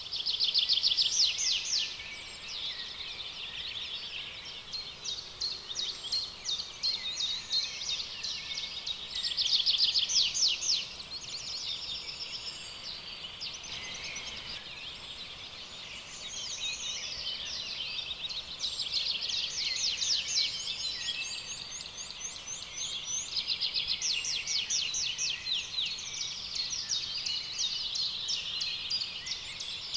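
Several birds singing at once in overlapping rapid trills and chirps, over a faint steady hiss of background noise. Bursts of fast trilling are loudest about a second in and again about ten seconds in.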